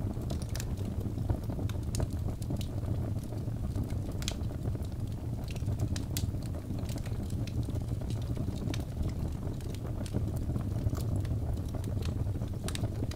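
Birch logs burning in a fireplace: a steady low rumble of flames with frequent, irregular sharp crackles and pops.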